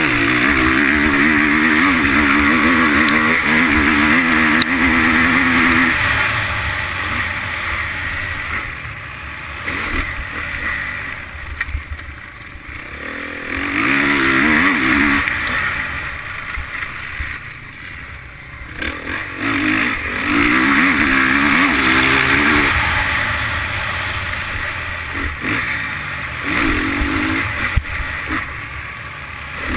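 Motocross bike engine, recorded on board, revving hard in bursts and easing off between them. There is a long burst of throttle at the start, another a little before the halfway point, a third around two-thirds of the way through, and a short one near the end.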